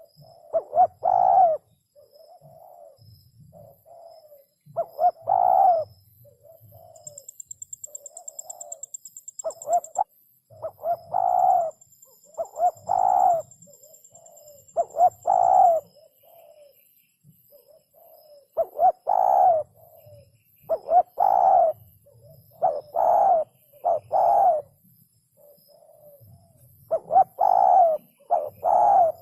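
Spotted dove cooing over and over: groups of soft lead-in notes followed by louder, low, throaty coos. A high, fast trill sounds faintly behind it about a quarter of the way in.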